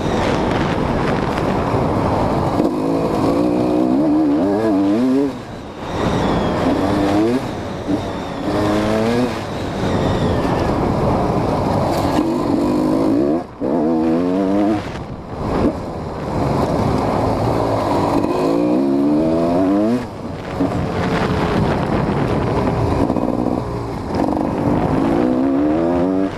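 GasGas EC 250 two-stroke single-cylinder engine revving hard over and over, its pitch climbing with each throttle opening and falling away between, with brief dips in loudness as the throttle closes.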